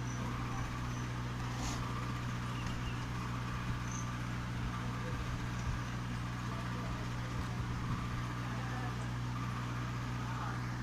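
A steady low mechanical hum, unchanging throughout, with a few faint clicks.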